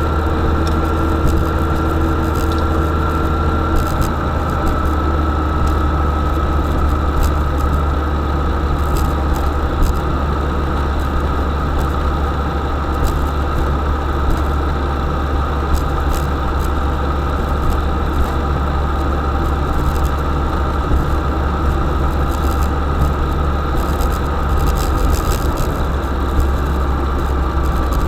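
UAZ-452 'Bukhanka' van's engine running steadily, with a high steady whine over the low drone and light scattered rattles.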